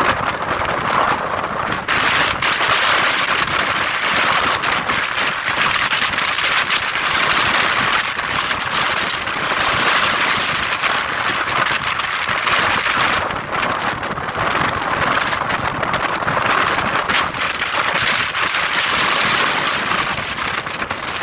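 Storm-force wind of about 70 mph buffeting a phone's microphone: a loud, steady rushing noise full of crackling.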